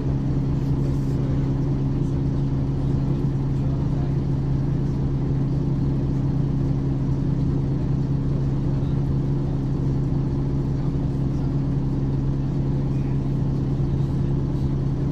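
Ikarus 435 bus engine running at a steady, unchanging pitch, a constant low hum with no revving or gear changes.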